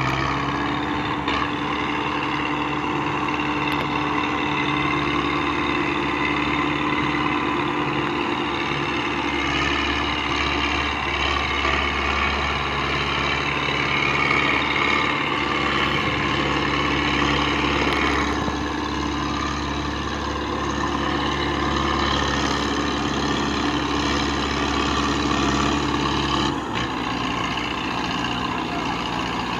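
Belarus 510 tractor's diesel engine running steadily under load, pulling a loaded trolley. Its note drops slightly near the end.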